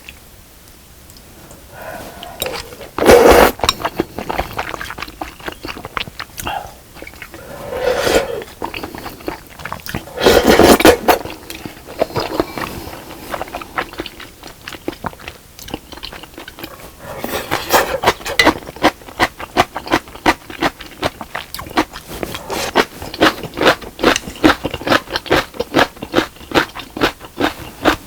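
Close-miked eating of spicy fish cake soup with rice cakes: a few loud slurps about a second long, then fast, steady wet chewing through the last third.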